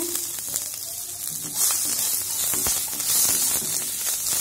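Paneer cubes sizzling in oil in a non-stick frying pan, the hiss growing louder about a second and a half in as they are stirred, with short taps and scrapes of the spatula against the pan.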